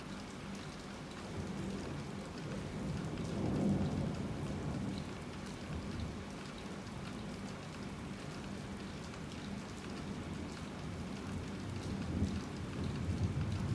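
Heavy rain falling steadily, with distant thunder rumbling low twice, about four seconds in and again near the end.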